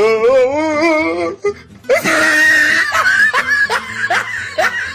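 A man's hysterical laughter: first a long wavering laugh, then a shrill burst about two seconds in, then a run of short rising laughs.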